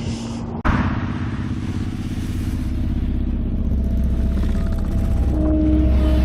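Motorcycle engines running with a steady low rumble that slowly grows louder, coming in after a sudden cut about half a second in.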